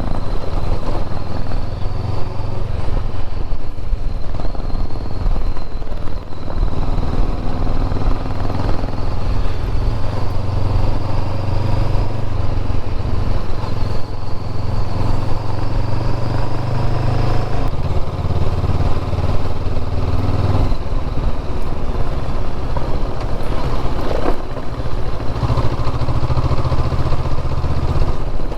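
Motorcycle engine running while riding, loud and steady, its note shifting up and down several times as the revs change.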